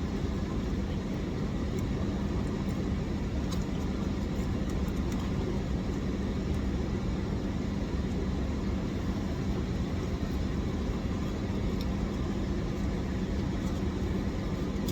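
Steady hum of an idling car, with a constant low drone and even noise, heard from inside the cabin.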